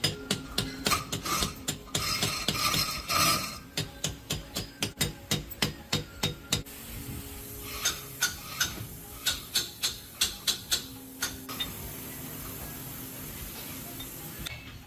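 Hand-tool work: a rapid series of sharp taps or clicks, several a second, giving way about halfway through to a steady hiss with scattered clicks.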